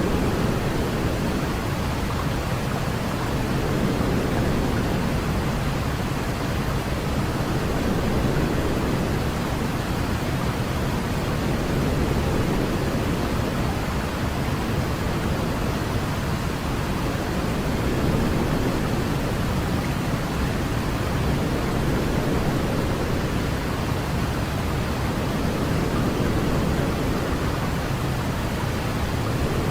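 Steady white noise for baby sleep, a deep, even hiss weighted toward the low end, like pink noise, with a gentle slow rise and fall in level every few seconds.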